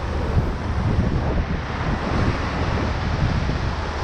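Whitewater rushing steadily around a raft on a river rapid, with wind buffeting the microphone in a fluttering low rumble.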